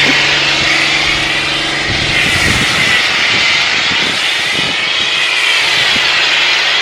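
Pressure washer spraying, a steady loud hiss that swells and fades as the spray sweeps across the car, over the steady hum of the washer's motor and pump.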